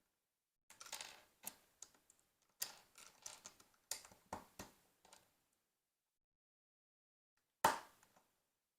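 Plastic LEGO pieces being handled and pressed together: a run of clicks and rattles for about four seconds, then a single sharp click near the end.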